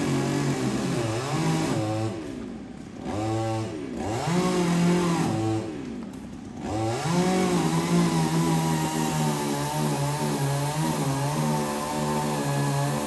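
Chainsaw engine running at high revs, with its speed dropping and picking back up twice in the first half before it holds steady at full throttle.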